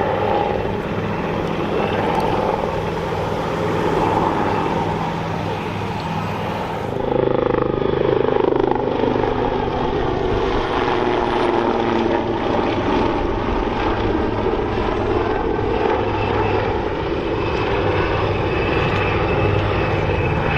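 A Fairey Swordfish biplane's radial piston engine and a Royal Navy Wildcat helicopter's rotor and turbines flying together in formation, a steady mixed aircraft drone. The sound changes abruptly about seven seconds in, and after that an engine tone slowly falls and rises.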